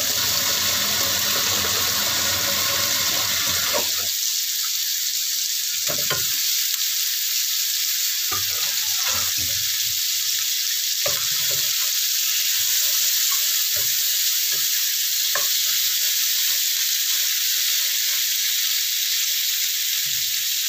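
Chicken feet, eggs and chilies sizzling steadily in oil and spice paste in a frying pan, with a few short knocks of a utensil or food against the pan. A tap runs for the first few seconds.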